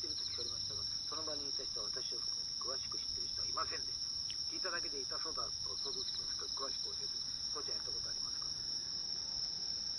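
Insects singing at night: a steady, unbroken high trill, with a second, pulsing trill joining briefly twice. Faint distant voices talk underneath.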